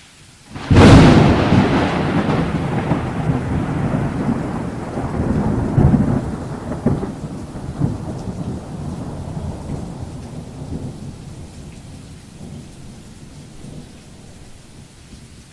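Thunderclap: a sudden sharp crack about a second in, then a long rolling rumble that swells again a few times and slowly fades, under steady rain.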